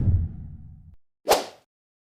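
The tail of a whoosh sound effect fading out over the first second, then a single short, sharp swish sound effect about a second and a quarter in.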